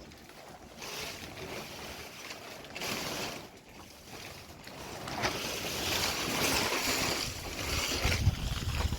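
Strong wind gusting, rising in surges over the last few seconds, with low rumbling buffets on the microphone near the end.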